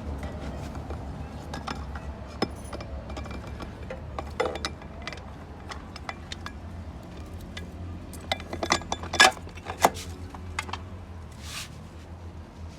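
Steel parts of a ZF 8HP automatic transmission clinking and knocking as the P1 planetary gear set is worked into the gearbox housing. Scattered light metallic clinks, with a quick cluster of louder ones about nine seconds in, over a steady low hum.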